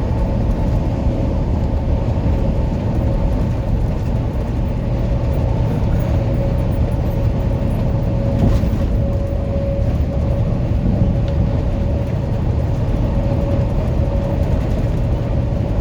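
Semi-truck engine and road noise heard from inside the cab while cruising at highway speed: a steady deep rumble with a thin, steady whine over it.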